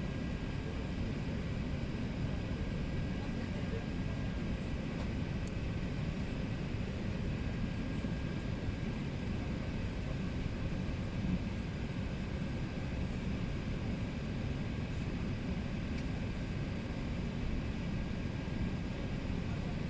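Steady cabin noise inside an Airbus A380: an even rumble of the engines and airflow, heaviest in the low end, with a faint steady high tone on top.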